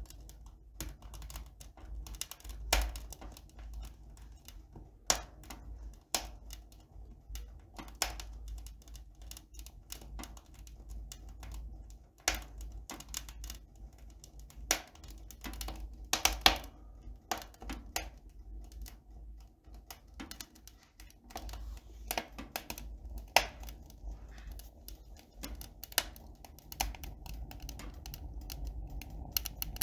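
Irregular sharp clicks and taps, several a second in places, over a steady low hum.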